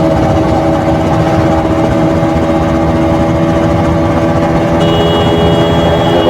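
KTM RC 200's single-cylinder four-stroke engine through its stock exhaust, running at steady, unchanging revs. A thin, high, steady tone comes in about five seconds in.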